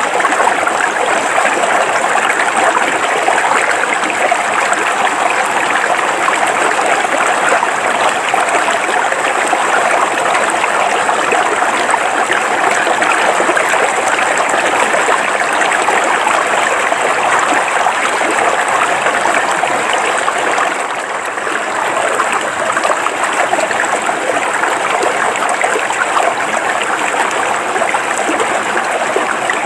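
River water flowing steadily over rocks, an even rushing and splashing.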